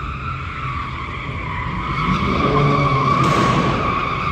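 Car tyres squealing steadily as a car slides, with its engine revving up about two seconds in.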